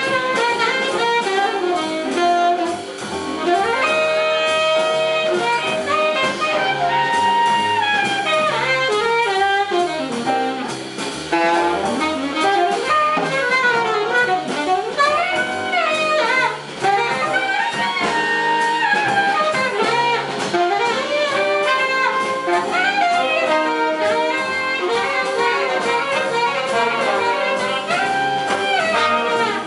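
Big band playing a jazz number live, with saxophones and brass over a drum kit.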